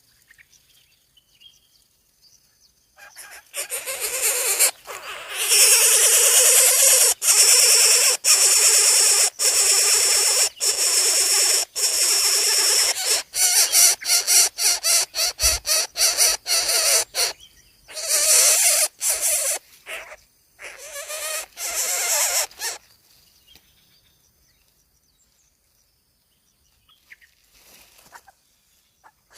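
Coucal nestlings giving harsh, noisy calls: long stretches at first, then breaking into a rapid string of short bursts before stopping.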